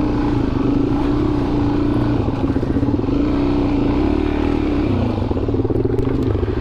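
Dual-sport motorcycle engine running while riding a dirt trail, its note holding fairly steady and then climbing higher about five seconds in as the throttle opens.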